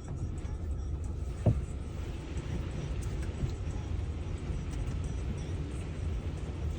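Automatic car wash heard from inside the car's cabin: a steady low rumble of machinery and water. One brief sharp sound comes about a second and a half in.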